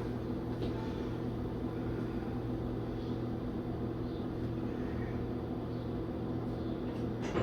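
Steady low mechanical hum of room machinery, with one soft click near the end.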